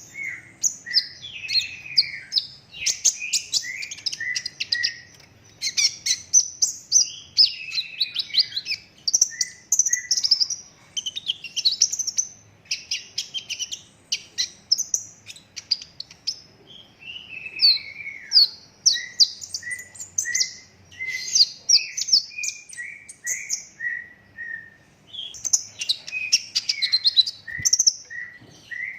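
Kolibri ninja sunbird singing continuously in rapid, dense volleys of high twittering, broken by runs of short, falling chirps about three a second.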